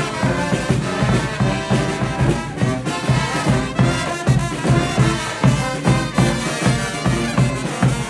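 Live brass band playing an upbeat tune, horns over a steady driving beat.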